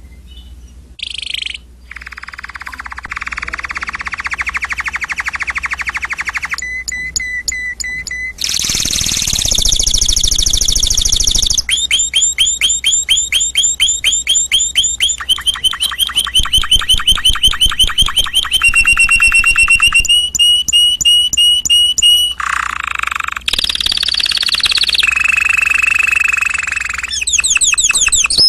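Domestic canary singing: a long song of rapid trills and rolls, each repeated phrase giving way to a new one every few seconds.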